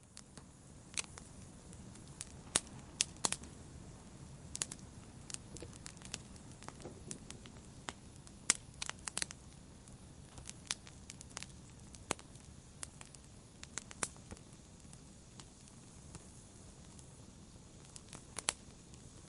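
Fireplace fire crackling: irregular sharp pops and snaps, some in quick clusters, over a soft steady rush of the flames.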